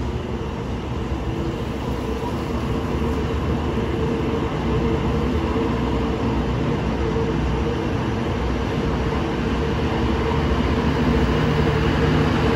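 Passenger train coaches rolling past along the platform track: a steady noise of wheels running on the rails with a steady hum, growing gradually louder.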